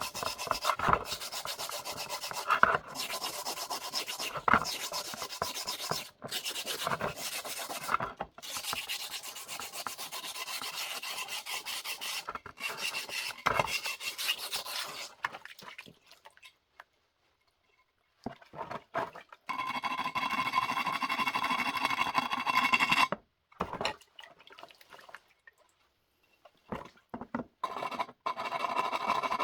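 Unglazed wood-fired stoneware being abraded by hand, a gritty scratching in quick repeated strokes. It stops for a few seconds past the middle, then resumes as longer, steadier scraping strokes with short pauses between them.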